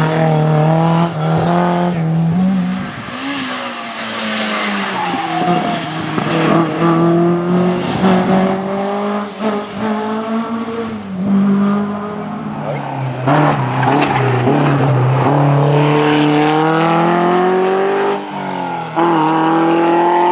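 Historic rally car engine revving hard along a stage, its pitch climbing and then dropping sharply at gear changes, several times over.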